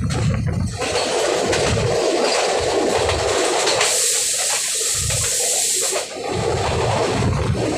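Rushing, rumbling noise of a train passing close by at speed, with a sharper high hiss for about two seconds in the middle.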